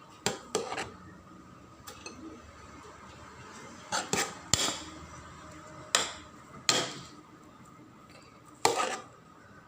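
A serving spoon knocking and scraping against a cooking pot while rice is spooned in: about nine sharp clanks at irregular intervals, some in quick pairs.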